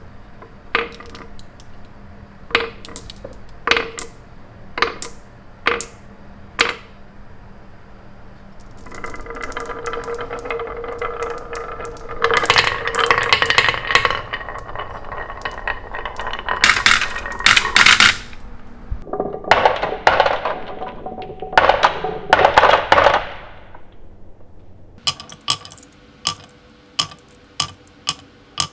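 Marbles clicking and clattering on a marble run. First come separate sharp clicks, then a rolling sound that turns into a long, loud rattle in the middle, and then a few more single clicks near the end.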